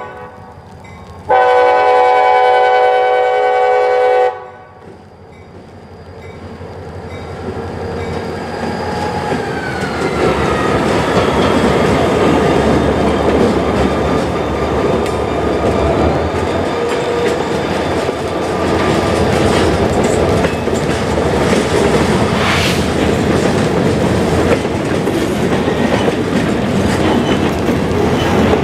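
A CSX freight locomotive's air horn sounds one long chord of about three seconds, a second in. Then the train comes by, a rumble that grows steadily louder and stays loud, with wheels clicking over the rail joints.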